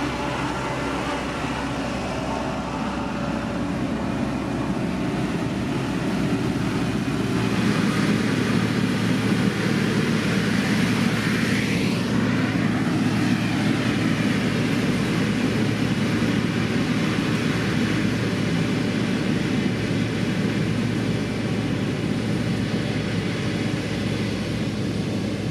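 Heavy road-construction machine engine running steadily at work, its drone rising in loudness for a stretch in the middle. A brief whine rises and falls about twelve seconds in.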